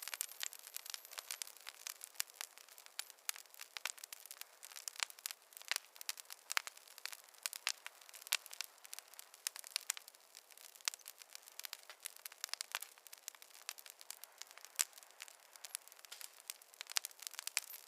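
Fire in a fireplace crackling steadily, with many irregular sharp pops and snaps over a faint hiss.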